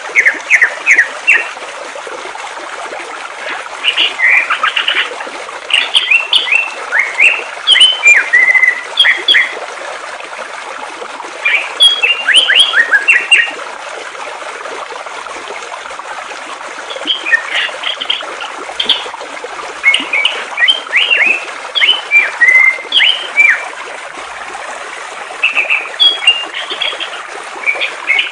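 A songbird singing in repeated phrases of quick, high chirping notes, with pauses of a few seconds between phrases, over the steady rush of flowing water.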